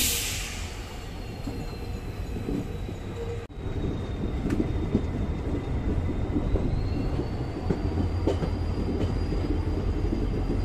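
Express train coaches rolling slowly through a station yard, heard from the open coach door: a steady rumble of wheels on rail with scattered clicks over rail joints. A thin, high wheel squeal is drawn out through most of it, and there is a brief hiss right at the start.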